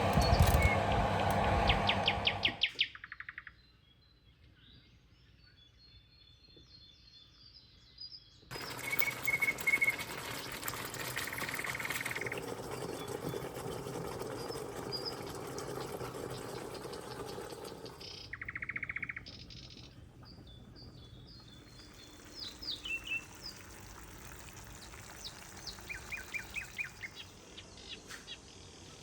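Birds chirping in short quick phrases over a steady background hiss, mainly in the later part, after a louder unidentified sound that cuts off about two and a half seconds in.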